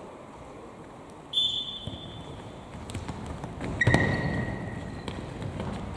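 Sounds of a football game in a hall: a ball thudding on the floor, with two long high steady tones, the first starting just over a second in, the second starting with a loud thud near the middle.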